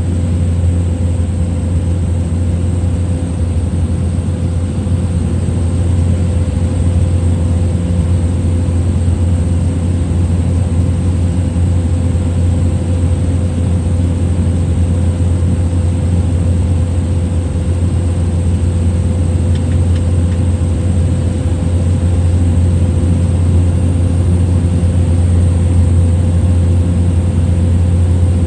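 Steady drone of a small plane's piston engine and propeller heard inside the cabin in flight: a heavy low hum with a fainter steady higher tone over it, even in level throughout.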